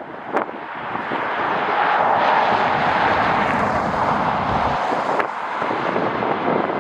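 Jet airliner passing by. Its engine noise swells over the first two seconds, stays loud for a couple of seconds, then eases off. A couple of sharp wind knocks hit the microphone.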